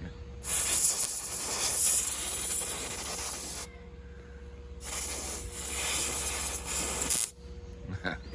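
Two long bursts of harsh hissing, rubbing noise, the first about three seconds long and the second about two and a half, from a bug zapper being cleaned.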